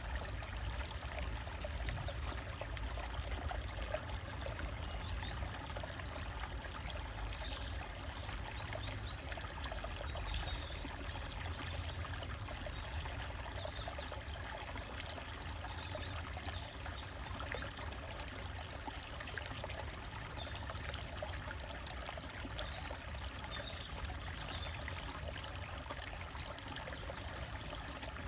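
A small forest stream trickling over rocks: a steady, unbroken rush of water.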